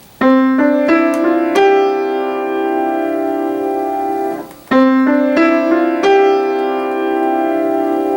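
Piano playing five notes one after another, legato with the sustain pedal down, so they ring on together into a clouded, hazy resonance. The sound is cut off about four seconds in and the same five notes are played again and left to ring.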